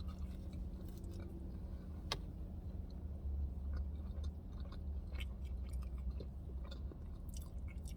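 A person chewing French fries dipped in sauce, with soft wet mouth clicks, over a steady low hum.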